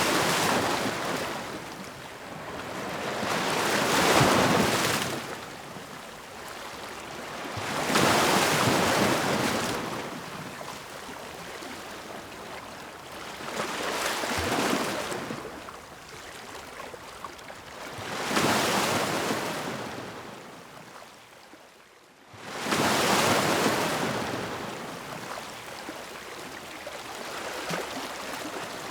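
Ocean waves breaking and washing in, the surf swelling and fading about every four to five seconds. Near the end the wash falls to a brief lull before the next wave breaks suddenly.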